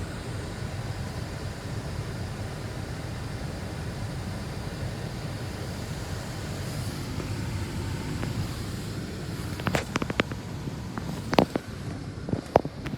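Ryko Soft Gloss MAXX 5 automatic car wash running its Tri-Foam application: a steady spraying hiss and machine hum heard from inside the car. A cluster of sharp taps and clicks comes in from about ten seconds in.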